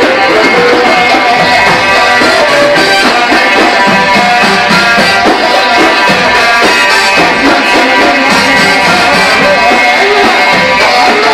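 Loud Egyptian sha'bi wedding band music: a sustained melody line over a steady hand-drum rhythm.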